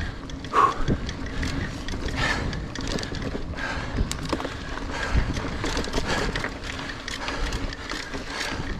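Niner Air 9 RDO 29er mountain bike riding over rough singletrack: tyres on dirt and rocks, with a constant run of short knocks and rattles from the bike jolting over bumps.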